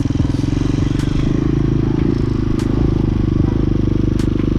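Hawk 250 dual-sport motorcycle engine running steadily as the bike rides along, its note holding fairly even with small changes in pitch.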